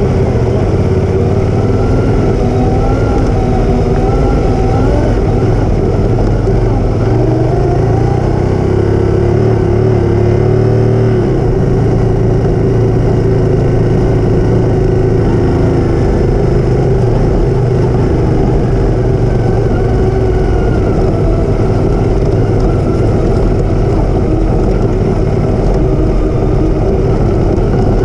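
Motorcycle engine running steadily under a dense low noise, as heard while riding; its pitch wavers slightly around 8 to 11 seconds in.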